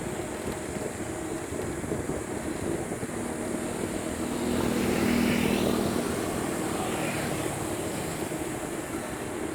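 A motor engine hum passes by, swelling and then fading around the middle, over a steady rush of wind and road noise.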